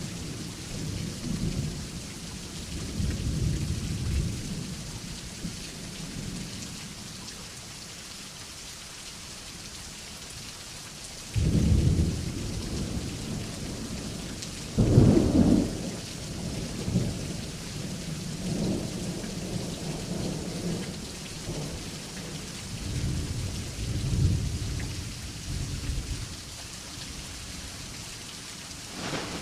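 A thunderstorm: steady rain hiss with low rolling thunder throughout. There are two sharp, loud thunderclaps, the first a little over a third of the way in and the second about halfway.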